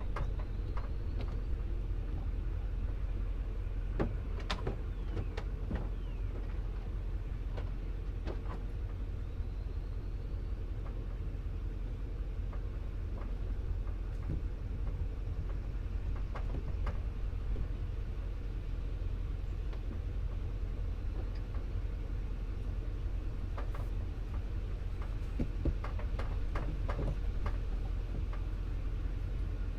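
Pickup truck driving slowly: a steady low engine and road rumble, with scattered knocks and rattles from the truck going over bumps, more of them near the end.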